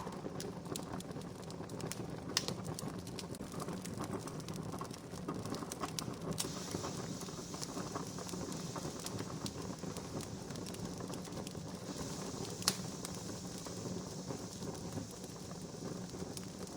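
Wood campfire crackling, with scattered pops and two sharper snaps, one about two seconds in and one near the end; a soft hiss joins about six seconds in.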